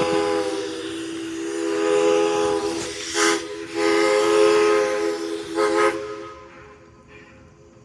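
Steam locomotive whistle sounding a long blast of several notes at once over a rush of steam, wavering in loudness and stopping about six seconds in.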